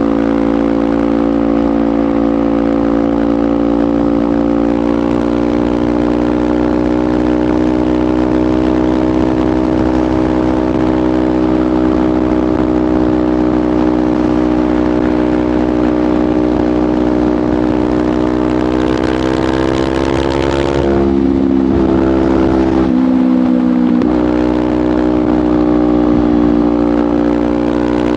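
Kawasaki Ninja 500's parallel-twin engine through a LeoVince GP Corsa Evo slip-on exhaust, running steadily at cruising speed. About two-thirds of the way in there is a brief rush of hiss. Then the exhaust note drops in pitch and its low end briefly cuts out before steadying again.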